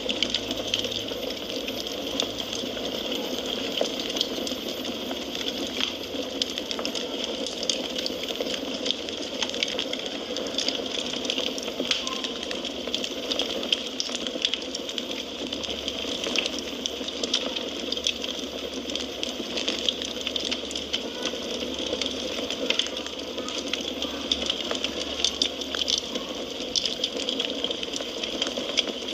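Wood fire crackling in a fireplace: a steady hiss with many quick, sharp pops and snaps scattered throughout.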